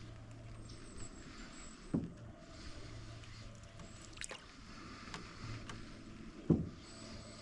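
Canoe being paddled: two dull knocks about four and a half seconds apart, the second louder, with a few light clicks from the paddle and the creaky hull between them.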